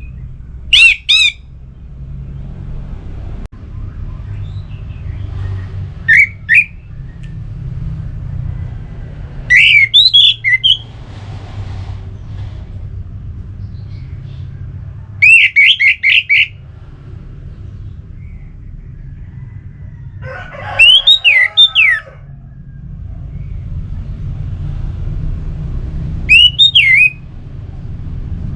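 Orange-headed thrush singing: six short, loud phrases of quick rising and falling whistled notes, one about every five seconds, over a steady low rumble.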